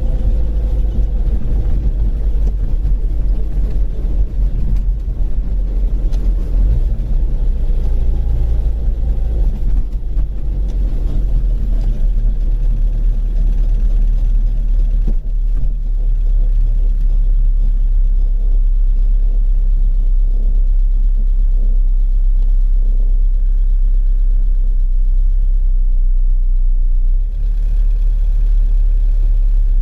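Rover Mini driving, with heavy low rumble from the engine and road. The engine note falls over the first ten seconds or so as the car slows, then runs steadily.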